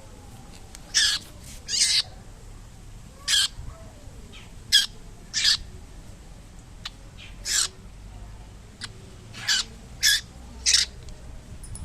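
A young bird that has fallen from its tree giving short, harsh, screechy calls, about nine of them at uneven intervals.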